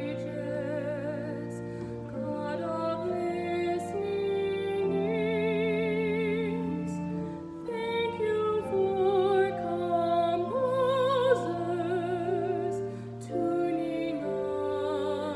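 Slow, tender music: a solo voice singing held notes with vibrato over sustained accompaniment.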